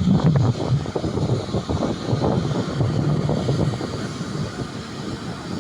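Jet airliner engine noise: a loud, rumbling roar that slowly fades, with wind buffeting the microphone.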